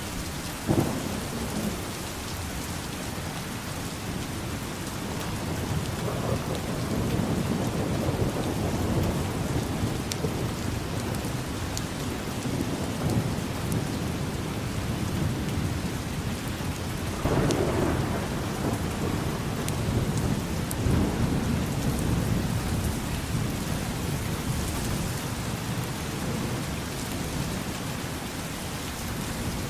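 Steady heavy rain with thunder. There is a sharp crack about a second in, then low rumbles that swell a few seconds later and again past the middle.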